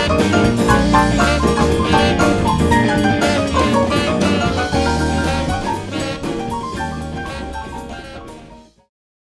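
A live band playing an instrumental passage, with a drum kit keeping time over bass and pitched notes. The music fades out gradually over the last few seconds and ends in silence near the end.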